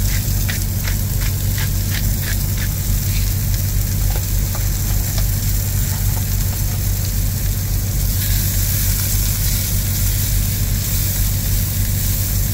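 Mushrooms frying and sizzling in an electric skillet, the sizzle growing stronger about eight seconds in. A run of short clicks sounds in the first three seconds, over a steady low hum.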